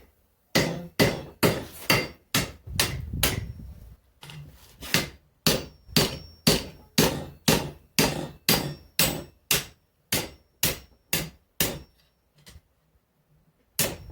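Hand hammer striking hot mild steel on an anvil, about two blows a second, many leaving a faint high ring. The blows shape the bend of the axe body around its eye. They stop near the end for about two seconds before starting again.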